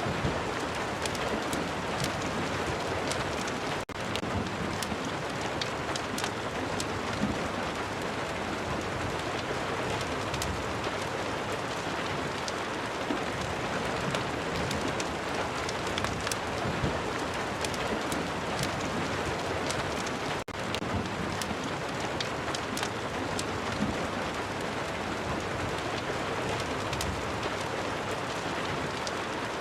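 Steady rain ambience: an even, dense hiss of rainfall with many small sharp ticks of drops throughout. It dips out for an instant twice, about four seconds in and again about twenty seconds in.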